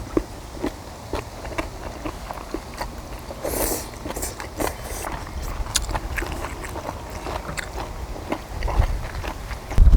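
People chewing and biting on chewy stir-fried octopus and kimchi, with irregular small wet clicks and smacks of the mouth, about one or two a second.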